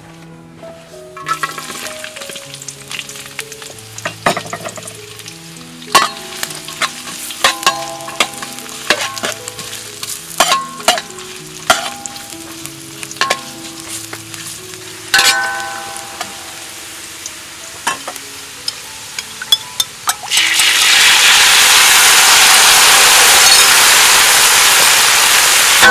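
Sliced shallots and aromatics sizzling in hot oil in a metal wok, with the metal spatula clinking and scraping against the wok now and then. About twenty seconds in, a dark sauce goes into the hot wok and a much louder, steady sizzle takes over. Soft background music plays underneath.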